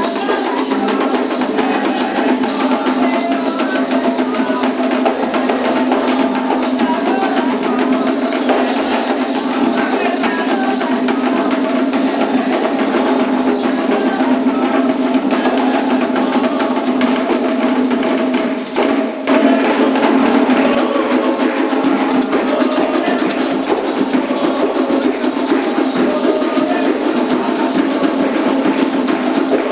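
Candomblé ritual music: hand drums played in a steady, dense rhythm with other percussion, and voices singing over it. The sound dips briefly a little past halfway.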